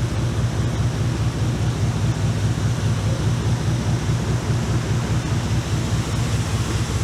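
Boat engine running steadily underway, a low even drone, with wind and water rushing past the hull.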